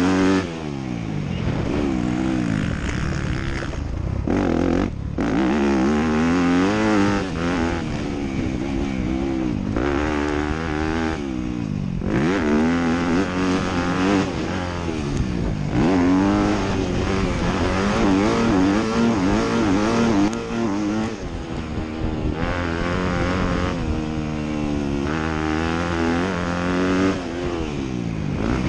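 Motocross dirt bike engine racing, revving up and down again and again as the throttle opens and closes through the track, with brief drops when the throttle is shut about four and eleven seconds in.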